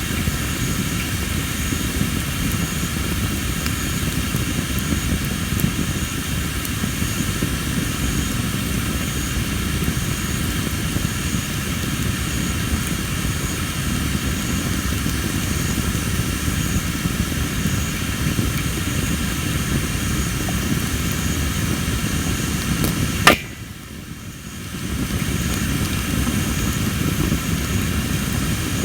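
Tree-of-heaven (Ailanthus) firewood burning with a steady low rumble, while insects chirp softly about once a second. About 23 seconds in the wood gives one sharp, loud pop, typical of moisture-heavy wood, and the background drops away for a second or so before returning.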